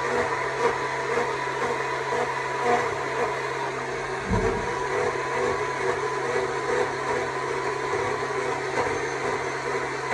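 Stihl MSA 200 C battery chainsaw running steadily with an even motor whine, cutting into wood. A brief low thump comes about four seconds in.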